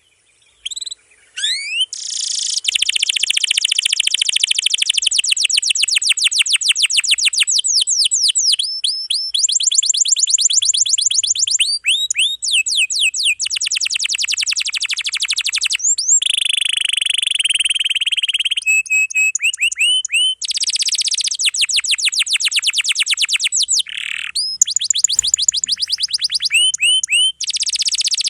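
Domestic canary singing a long, dense song of rapid trills, each phrase a fast series of repeated notes, some rising and some falling, with short pauses between phrases.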